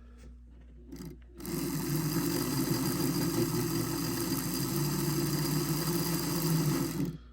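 Small electric motor and gear train of a Kleinbahn Blauer Blitz HO-scale model railcar running, its wire-wound worm gear freshly greased. It starts suddenly about a second and a half in, runs with a steady whirring buzz, and stops just before the end.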